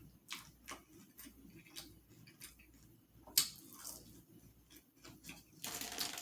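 Close-up eating sounds, chewing and lip smacking on spicy fried chicken: a scatter of small wet clicks, one louder about three and a half seconds in. A brief rush of noise comes near the end.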